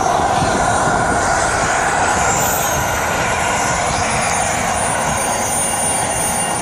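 Radio-controlled model jet flying: a steady rushing noise with a thin high whine that falls in pitch about three seconds in, then holds steady.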